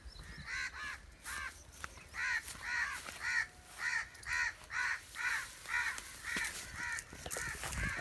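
A bird giving a long series of harsh, caw-like calls, about two a second, each rising and falling in pitch.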